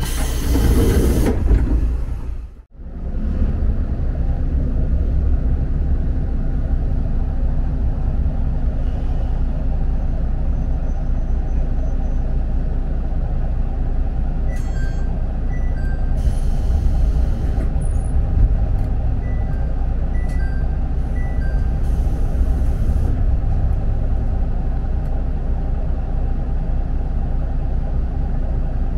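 Diesel railcar running, heard from inside the car: a steady low rumble of engine and wheels. There is a short burst of hiss at the start, a sudden brief drop-out about three seconds in, and two more short bursts of hiss later, along with a few faint high beeps.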